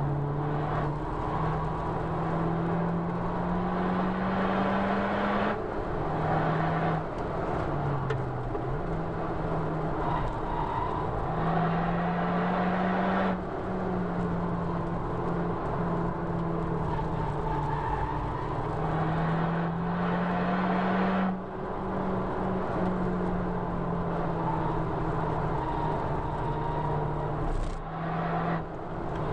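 Honda Civic Type R FK2's turbocharged 2.0-litre four-cylinder engine heard from inside the cabin at speed on a race track. Its note climbs steadily under power and drops sharply several times as the car shifts or slows for corners, over steady tyre and road noise.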